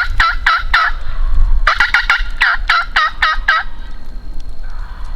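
Wild turkey tom gobbling twice, each gobble a rapid run of rattling notes. The first tails off just under a second in, and the second starts about two seconds in and lasts about two seconds.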